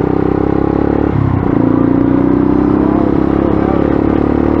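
Dirt bike engine running steadily under way, its note briefly dropping and picking up again about a second in.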